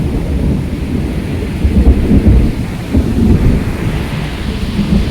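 Thunder rumbling low and uneven in heavy swells, over steady rain; the hiss of the rain grows louder near the end.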